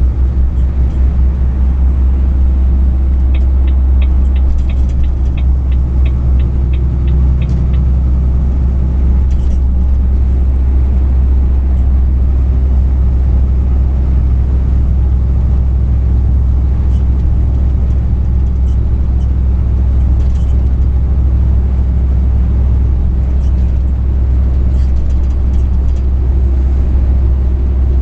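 Truck engine and road noise picked up by a dash camera: a steady deep rumble throughout. A few seconds in, a run of light ticks, about three a second, lasts for roughly four seconds.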